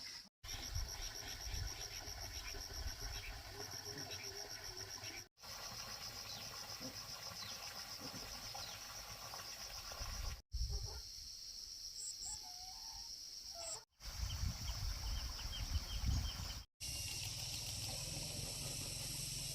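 Insects trilling outdoors in a steady, pulsing high band, over a low rumble. The sound drops out abruptly several times, as at edits between shots.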